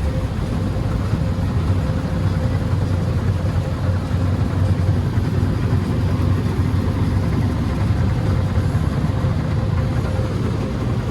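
Steady low mechanical rumble heard from inside a car in an automatic car wash, with a faint steady hum running through it.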